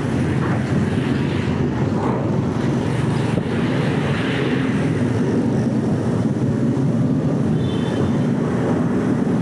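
Steady low engine rumble of a car ferry's engines running, with a faint hiss over it.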